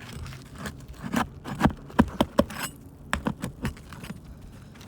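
Hand tool knocking and scraping on roof shingles as a shingle and its nails are pried out: a run of sharp knocks, loudest about two seconds in.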